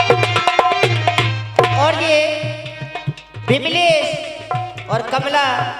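Indian folk music: a hand drum plays a fast, steady beat, and about a second and a half in a melodic line with sliding, wavering pitch comes in over the drumming.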